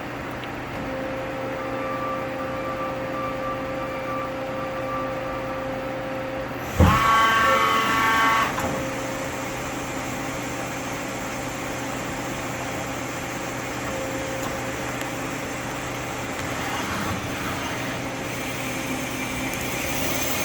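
Yama Seiki GLS-1500L CNC lathe running under power with a steady mechanical hum. About a third of the way in, a sudden loud knock followed by a whine that lasts under two seconds.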